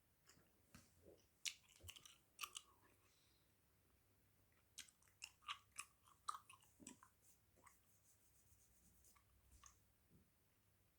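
Close-miked chewing of Hubba Bubba bubble gum: soft wet clicks and smacks of the mouth working the gum, in bursts with a short pause about three seconds in.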